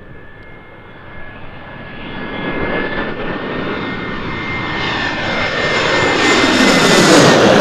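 Boeing C-17A Globemaster III on its landing approach, its four Pratt & Whitney F117 turbofans growing steadily louder as it comes in low. A high steady whine sits over a rushing jet noise with a falling sweep, and it is loudest near the end as the aircraft passes closest.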